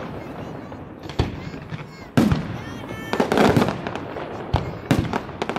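Fireworks going off in a display: a loud bang about two seconds in, followed by a quick run of bangs and crackles, then a few more single bangs near the end.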